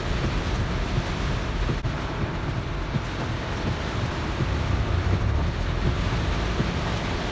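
Heavy downpour: a steady hiss of rain with a low rumble underneath.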